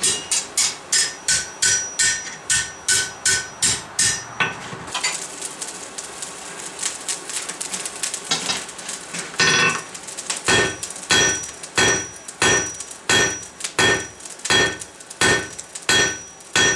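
Blacksmith's hammer striking a hot steel bar on an anvil in a steady rhythm of about two to three blows a second, each blow ringing. The bar is being drawn out thinner. The hammering stops for a few seconds in the middle, with a couple of light taps, then picks up again.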